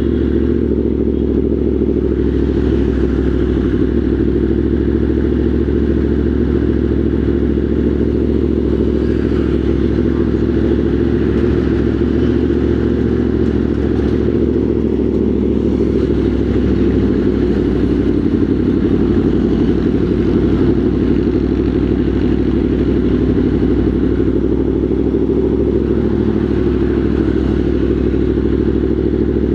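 Motorcycle engine running steadily at low, even revs, without any clear revving.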